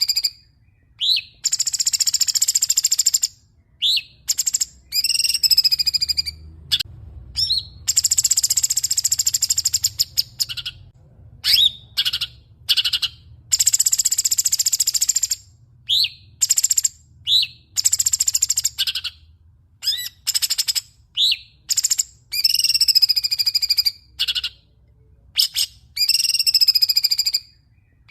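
Songbird singing in a masteran recording used to tutor caged songbirds: loud, high-pitched phrases repeat every couple of seconds, alternating short curved whistled notes with long buzzy trills and sharp chips.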